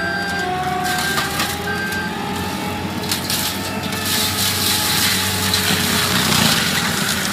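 Heavy forestry machine's diesel engine running under load while wood is crushed and splintered, the crunching growing louder about halfway through.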